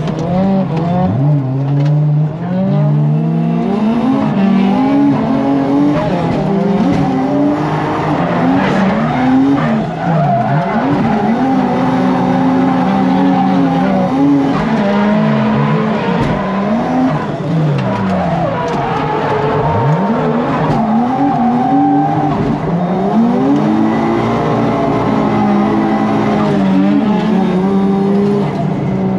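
A drift car's engine heard from inside the cabin, its pitch repeatedly climbing and dropping as the driver works the throttle through a drift, with tyre squeal over it.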